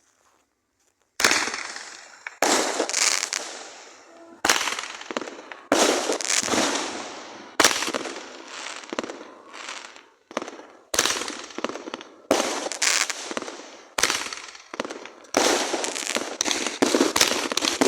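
Fireworks going off shot after shot, starting about a second in. Sharp reports come every second or so, each trailing off as it fades, with a quicker run of bangs near the end.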